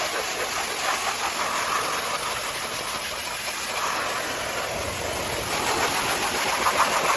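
High-pressure washer spraying water: a steady hiss of the jet over the running machine, with a fast pulsing setting in near the end.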